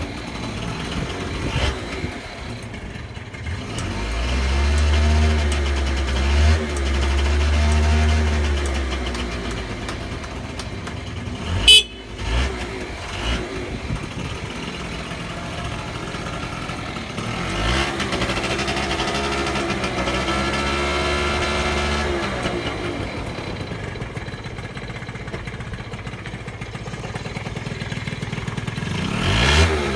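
Honda Lead 50R AF10 scooter's small two-stroke single running, revved up and let back down twice in long throttle swells with steadier running between. A sharp click about halfway through.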